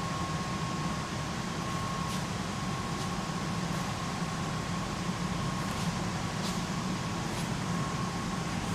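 Steady mechanical hum, like a running fan, with a faint thin steady tone above it and a few light ticks.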